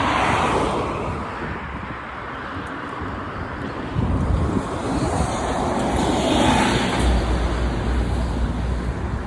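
Street traffic: cars passing, swelling up twice, with a low rumble of wind buffeting the microphone near the end.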